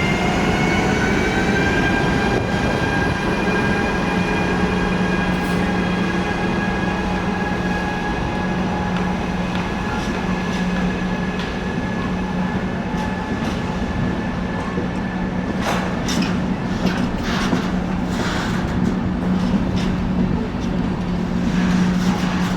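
Electric train running through the station: the traction motors' whine rises in pitch over the first couple of seconds, then holds steady over a constant low hum. From about two-thirds of the way in, a run of clicks and clatter joins it, like wheels passing over rail joints.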